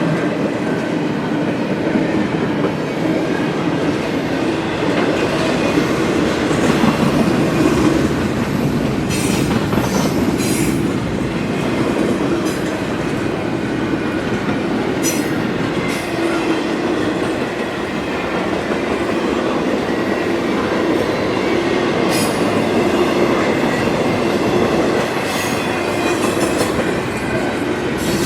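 Freight train cars rolling past at close range: a steady rumble of steel wheels on rail, with scattered wheel clicks over rail joints.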